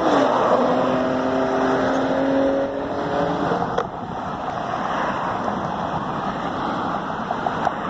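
A car running on the road, its engine and tyre noise steady with a faint hum, and a single click about four seconds in.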